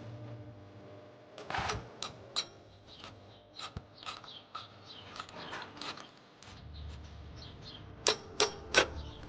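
Metal hand tools clicking and clanking irregularly against a push mower's engine and deck as the engine is unbolted, with three sharp clanks near the end. A low steady hum comes in about two-thirds of the way through.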